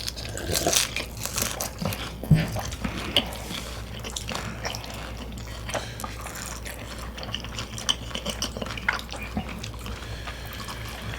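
Close-miked eating sounds: wet chewing and lip smacks with small irregular clicks, a louder one about two seconds in.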